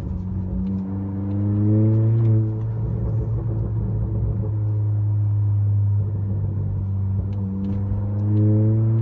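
2019 Honda Accord with the resonator and muffler deleted, heard from inside the cabin: a steady low exhaust drone, with the engine note rising as the car accelerates about a second in and again near the end.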